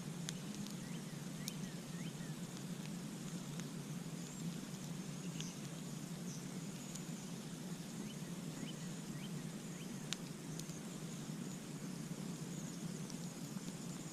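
Campfire crackling: scattered sharp pops and clicks over a steady low rush of burning, with faint high chirps in the background.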